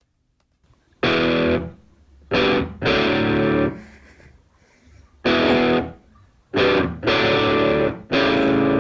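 Distorted electric guitar chords, struck and let ring for about half a second to a second and a half each, in separate stabs with short silent gaps between them. The first comes about a second in.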